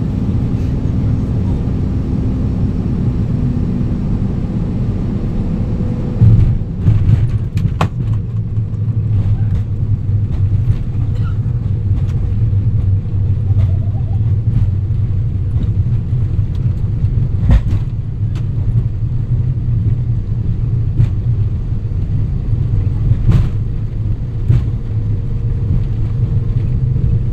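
Cabin noise of an airliner landing, most likely an Azimut Sukhoi Superjet 100: a steady low engine and airflow rumble. About six seconds in comes a sudden loud jolt as the wheels touch down. After it the rumble grows heavier as the plane rolls out on the runway, with a few sharp knocks.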